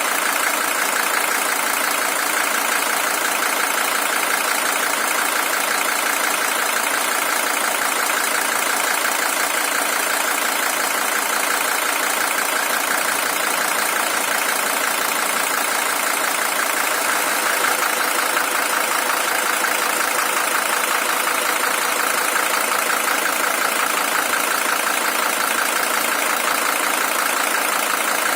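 Mercedes-Benz W123 300TD's OM617 five-cylinder diesel engine idling steadily, an original engine with some 620,000 km on it.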